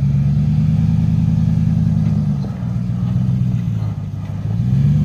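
Truck engine running at low revs while crawling, its pitch dropping about halfway through and climbing again near the end as the throttle is eased off and reapplied.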